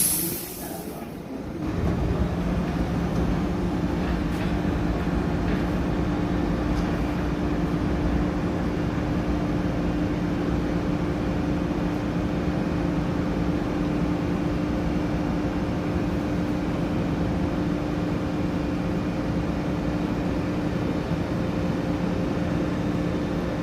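A New York City subway train standing in the station, humming steadily with several held tones. A short hiss of air comes right at the start.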